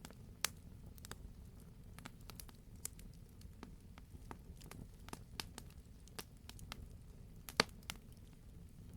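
Wood fire in a fireplace crackling, with a low steady rumble of the burning and irregular sharp pops and snaps, the loudest pop about two-thirds of the way through.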